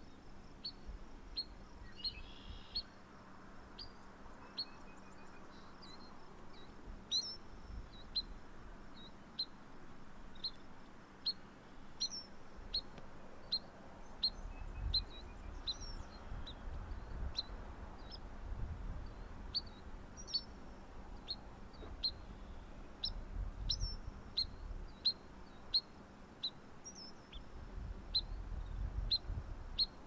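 A small bird calling with short, high, downslurred chip notes repeated over and over, about one and a half a second, with an occasional higher note mixed in. Intermittent low rumble underneath.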